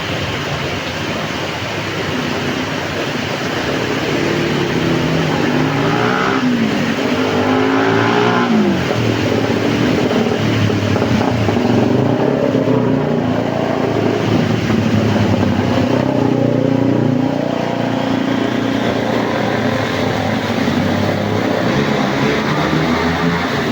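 Heavy rain hissing steadily, with a motor vehicle's engine passing, its pitch rising and falling for several seconds before fading, and another engine coming in near the end.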